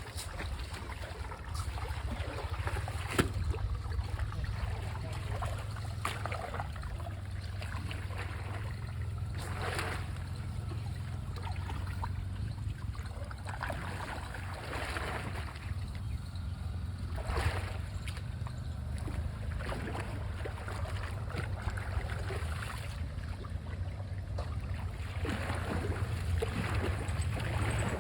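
Steady low wind rumble on the microphone, with short swishes of water-like noise every few seconds and a sharp click about three seconds in.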